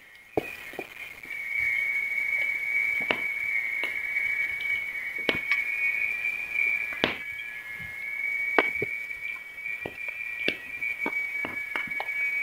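Coconut coir burning in a fireplace, with a steady high-pitched whistle and scattered sharp crackles and pops. The whistle sets in about half a second in. The loudest pops come about seven and eight and a half seconds in.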